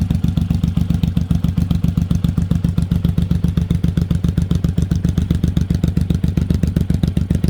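Suzuki VZR 1800 (M109R) Boss's 1,783 cc V-twin idling through an aftermarket Miller exhaust: a steady, deep, evenly pulsing exhaust note that does not rev.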